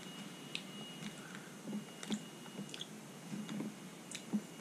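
A person chewing small spicy tapioca ball snacks with the mouth closed, making irregular small clicks and soft crunches.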